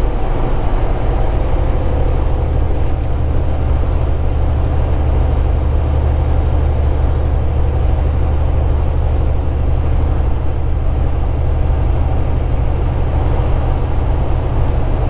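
Steady low drone of a Volvo 780 semi-truck at highway cruising speed, heard inside the cab: engine hum with road and wind noise.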